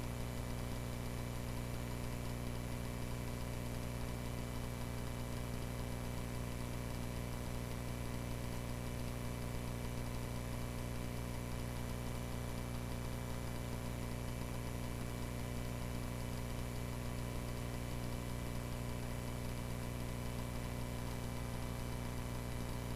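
Cessna 140A's piston engine and propeller running steadily in flight, an even drone that holds one pitch throughout.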